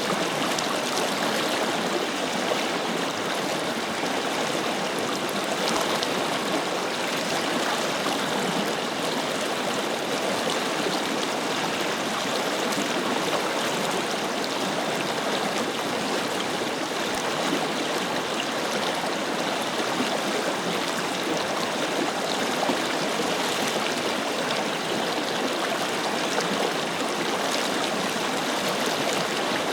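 Forest river flowing, a steady, even rush of water with a light gurgle.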